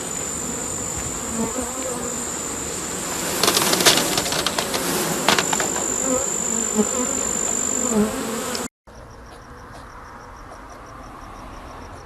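Steady high-pitched insect buzzing with a few sharp clicks and knocks in the middle; after a sudden cut, insects chirping in an even rhythm, about four chirps a second.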